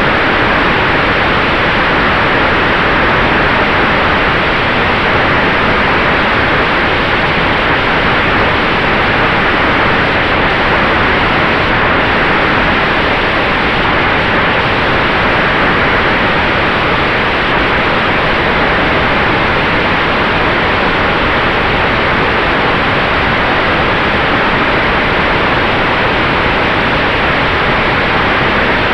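Steady, loud rush of air noise in flight in a Sonex Xenos electric motorglider, with a faint steady tone underneath.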